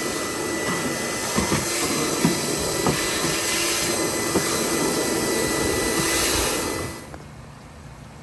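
A motor-driven machine runs with a steady, loud whir, with a few light knocks over it, and shuts off about seven seconds in.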